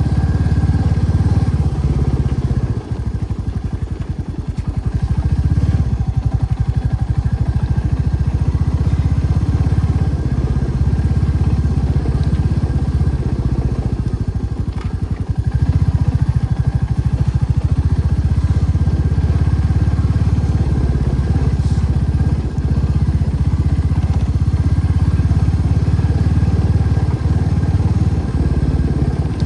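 Motorcycle engine running steadily, its low note easing off briefly twice, around three seconds in and again about halfway through.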